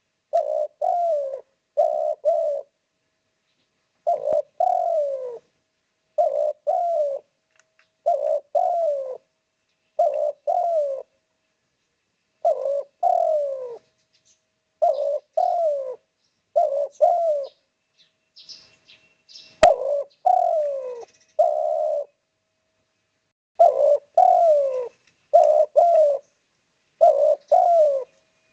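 Spotted dove cooing over and over in short phrases of two or three notes, repeated about every two seconds, each phrase ending on a falling note. A brief high chirp and a sharp click come about two-thirds of the way through.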